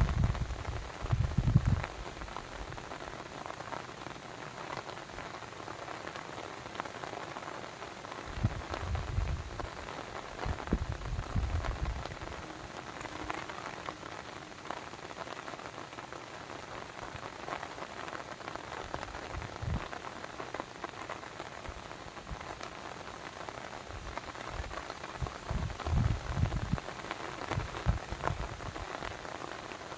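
Steady hiss and patter of water, dense and even, like rain or a rushing brook. Low rumbles swell and fade several times.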